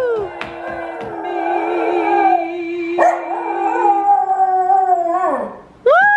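Pet dog howling, long drawn-out howls that waver in pitch. After a brief pause, a new loud howl starts sharply near the end.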